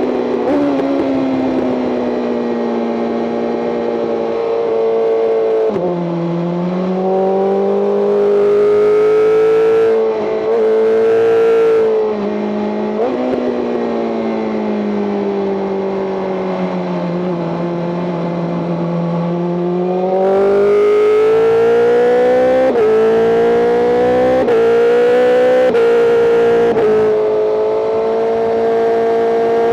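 BMW M 1000 RR's inline-four engine heard onboard at track pace, its revs sinking and climbing through the lap. Near the end it pulls hard through a quick run of upshifts, each a sudden drop in pitch, then holds steady high revs.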